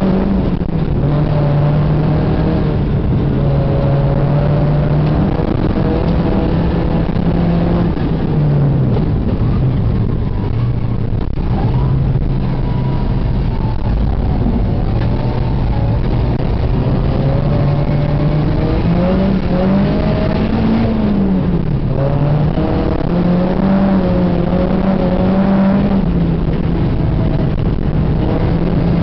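Ford Escort RS 2000 16v's four-cylinder engine, heard from inside the cabin, with revs rising and falling repeatedly as the car is driven. The revs climb quickly and drop sharply about two-thirds of the way through.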